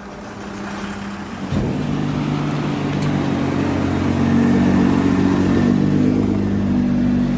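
Nissan GT-R R35's twin-turbo V6, breathing through an Armytrix valved exhaust, starts about a second and a half in and settles into a steady idle.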